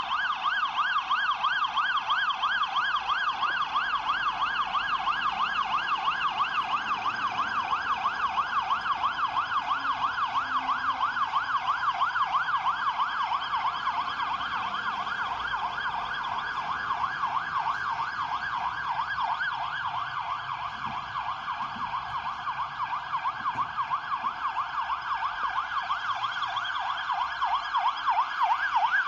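Siren of a Scania P410 fire engine (GBA 324 water tender) on an emergency run, sounding a continuous fast yelp that sweeps up and down about four times a second. It fades slightly past the middle and then comes back up.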